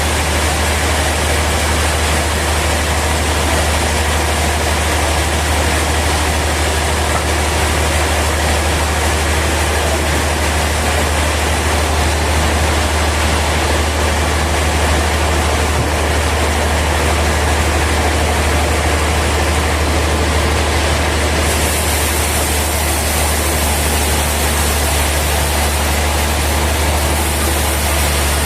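Sawmill machinery running steadily: a loud, unbroken deep hum under a wash of mechanical noise, with a higher hiss joining about three-quarters of the way through.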